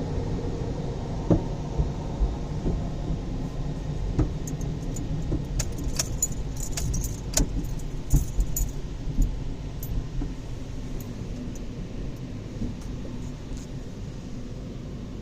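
Automatic car wash heard from inside the car: a steady low rumble, with a cluster of sharp clicks and rattles through the middle, easing off slightly near the end.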